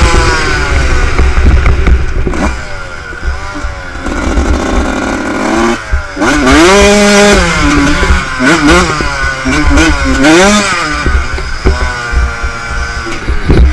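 Motocross bike engine revving up and falling back several times, with a run of short quick revs in the second half.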